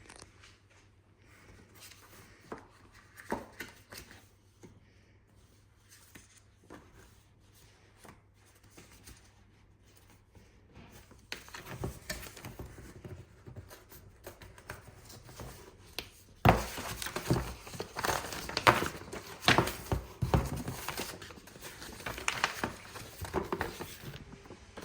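A product box being opened by hand: packaging tearing, crinkling and scraping. Sparse quiet clicks and rustles at first, then busier, louder handling from about halfway, with sharp knocks and scrapes in the second half.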